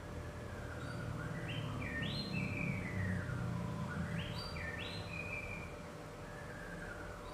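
A bird's whistled calls, in repeated phrases of quick rising stepped notes followed by long falling glides, over a low background rumble.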